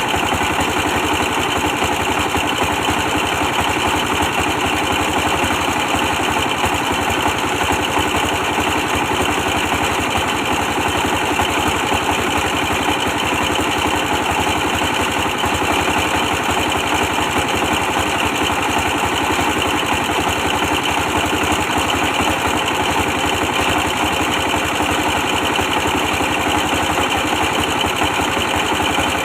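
A 24 hp stationary diesel engine running steadily as it powers a brick-press machine, a constant rapid chugging with no change in speed.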